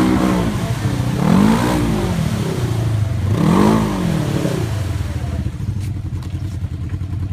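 A vehicle engine revs hard twice, its pitch rising and falling each time, then runs on more steadily at lower revs. It is stuck in a mud bog.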